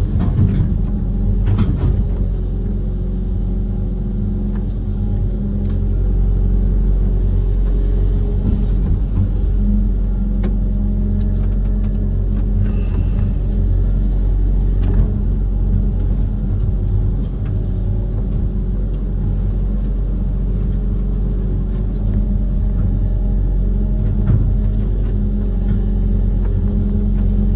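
Diesel engine of a Kobelco SK130 amphibious excavator running steadily under work, a deep continuous rumble, with a few short knocks in the first couple of seconds.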